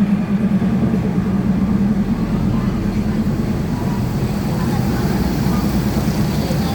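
NKF diesel railcar running along the track: a steady engine drone with the rumble of the wheels on the rails.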